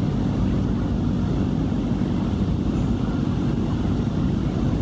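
Steady low rumble of a ride through city traffic, vehicle noise with no distinct events.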